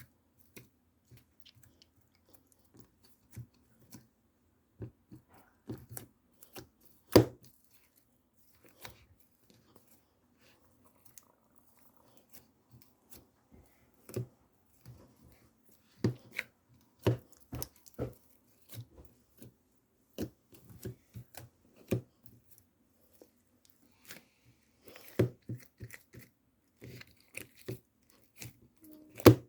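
Irregular sharp taps and knocks, some in quick runs, in a small room; the loudest single knock comes about seven seconds in.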